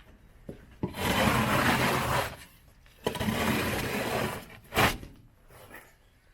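Scraper blade dragged across a truck bed in two long scraping strokes, then a sharp knock near the end of the second stroke.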